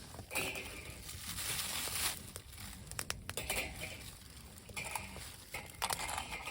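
Irregular rustling and crinkling, broken by a few sharp clicks and light knocks, as of objects being handled.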